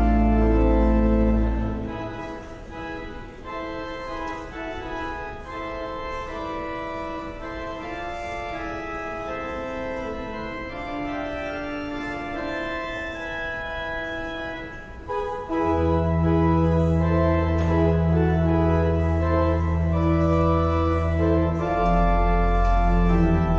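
Church organ playing sustained chords. The deep bass notes drop out about two seconds in, leaving softer upper notes, and come back loudly about fifteen seconds in.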